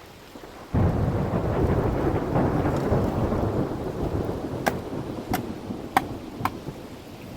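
A thunderclap breaks about a second in and rumbles away over several seconds, over steady rain. Four sharp taps come near the end.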